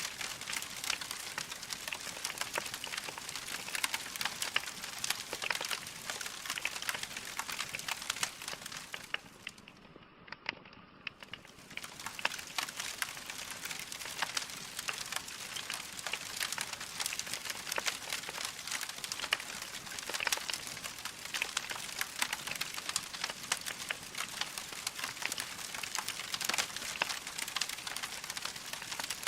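Log fire crackling, a steady dense crackle of small pops. About ten seconds in it briefly thins out and goes quieter, then picks up again.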